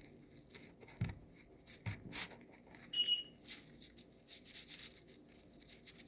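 Soft rustling and light knocks of craft material being handled and folded, with one short high beep about three seconds in.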